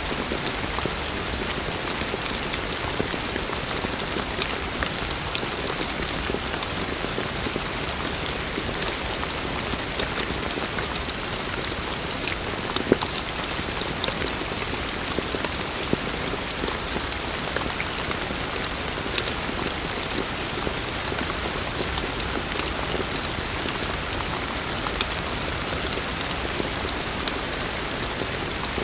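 Heavy rain falling steadily, a dense patter of countless drop impacts over an even hiss, with one sharper drop hit about halfway through.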